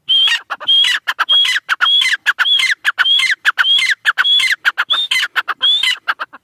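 Irani teetar, a partridge, calling loudly in a fast repeated series of about ten ringing phrases, roughly three every two seconds, with short sharp notes in between; the calling stops near the end.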